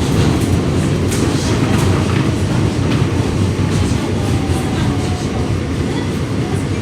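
New York City subway F train running between stations, heard from inside the car: a steady low rumble with irregular sharp clicks from the wheels on the track.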